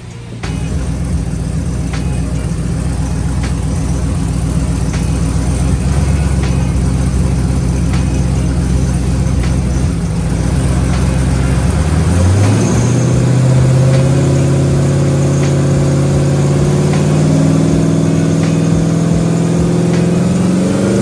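Twin-turbo box Chevy engine running steadily, then about twelve seconds in its pitch jumps up and keeps climbing slowly as the car accelerates.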